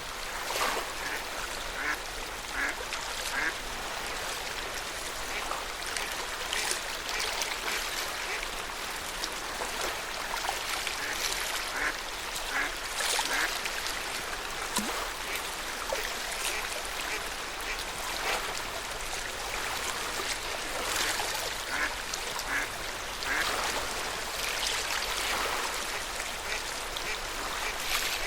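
Lake water lapping at the shore, with short bird calls, likely waterfowl, scattered through it.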